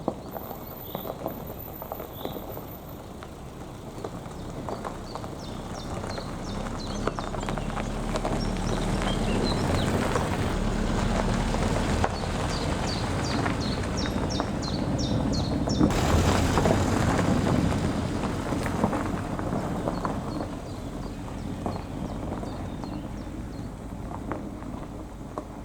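Toyota RAV4 driving along a gravel forest track, its tyres crunching and engine rumbling. The sound grows louder to a peak about two-thirds of the way through, then fades away. Birds chirp above it.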